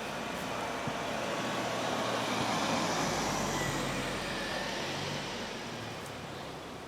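A road vehicle passing by: its noise swells to a peak about three seconds in, then fades away.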